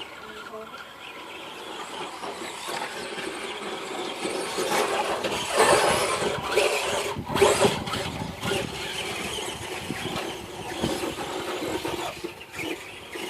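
Radio-controlled cars driving with their motors whining and tyres squealing. The sound grows louder in the middle, with several sharp peaks.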